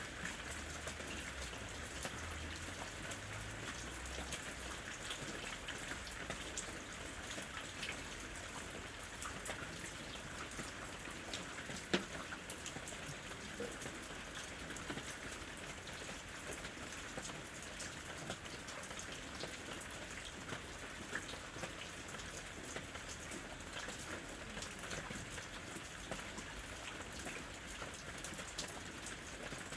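Steady rain falling on a house roof: an even patter with many separate drop ticks, and one sharper, louder drop strike about twelve seconds in.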